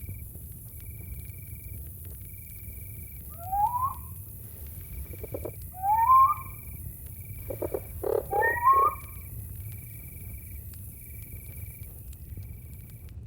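Night jungle ambience: crickets chirp in an even rhythm of about one short trill a second over a steady high insect hiss. A night animal gives three loud calls that rise in pitch, with short pulsing sounds beneath them, over a low rumble.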